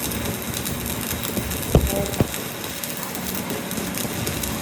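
Steady mechanical rumble, with two sharp low knocks about half a second apart a little under two seconds in.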